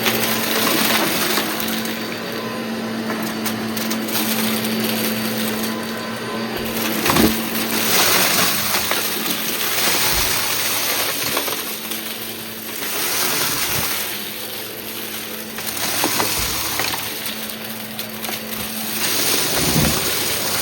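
Vacuum cleaner running with a steady motor hum. Its noise swells and fades every couple of seconds as it is pushed back and forth, with crunching and rattling of debris being picked up in a mess test.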